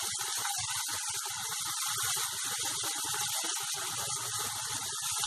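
Chopped onion, garlic and grated ginger sizzling steadily in hot mustard oil in a kadhai.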